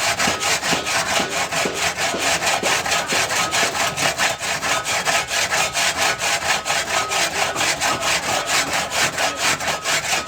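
Fast, even rasping strokes, about five a second, kept up without a break: something being rubbed or scraped rhythmically.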